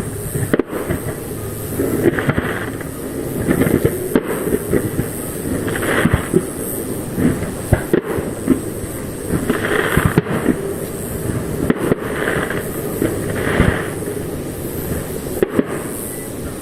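Aerial fireworks shells bursting: a steady string of bangs and booms, some in quick succession, with short hissing crackles between them.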